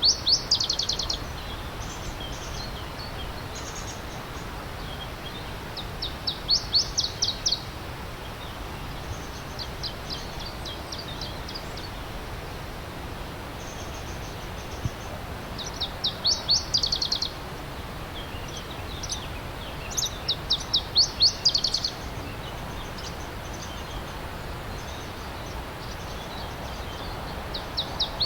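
A songbird repeating a short, fast trill of high, sharp notes about every four to six seconds, over the steady rush of a stream.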